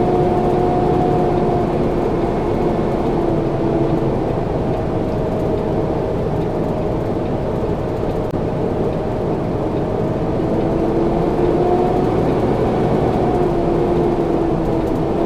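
Semi truck's diesel engine running steadily, heard from inside the cab as the truck drives slowly, with a hum whose pitch dips a little in the middle and rises again later.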